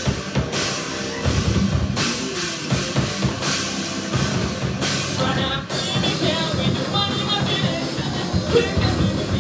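Loud live heavy rock band playing: pounding drum kit and distorted guitars, with a vocal line coming in over them about halfway through.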